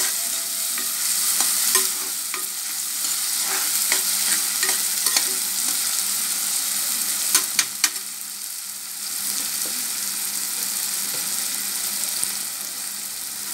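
Chopped onion and tomato sizzling in hot oil in an aluminium pressure cooker, stirred with a steel spoon that scrapes and clinks against the pot. Two sharp clinks about seven and a half seconds in are the loudest sounds.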